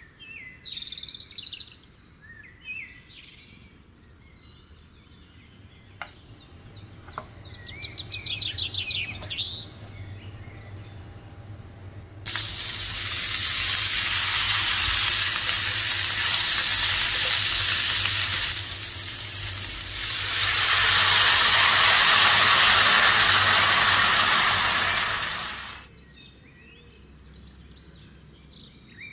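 Food frying in a pan of hot oil: a loud, steady sizzle that starts abruptly, dips briefly, then cuts off after about 14 s. Small birds chirp before and after it.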